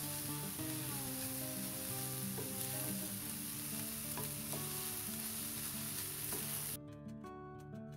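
Diced onion, grated carrot and capsicum sizzling as they sauté in oil in a steel pan, stirred with a spatula, with a few light scrapes. The sizzle cuts off suddenly near the end, leaving soft background music.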